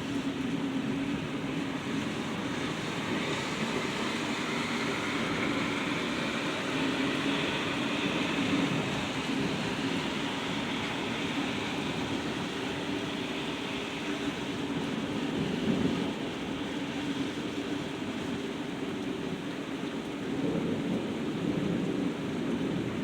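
Steady heavy rain of a severe thunderstorm, with a low rumble of thunder underneath that swells and fades a few times.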